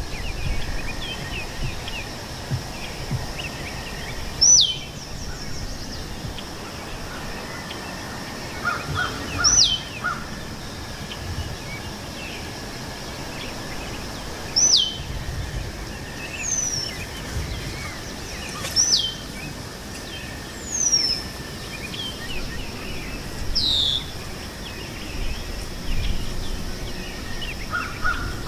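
Birds singing in a meadow: one bird repeats a high whistle that drops sharply in pitch about every five seconds, among smaller chirps from other birds, over a steady background hiss.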